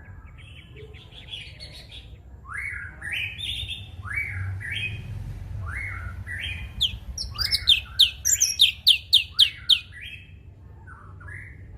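Cucak cungkok singing: a string of upward-sweeping whistled phrases, then a louder, rapid run of about seven sharp rising notes. A low steady rumble runs underneath.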